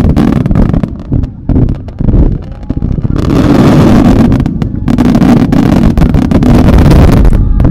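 Starmine fireworks barrage: shells launched and bursting in quick succession, the bangs running together into a continuous crackling din that is densest from about three seconds in and eases just before the end.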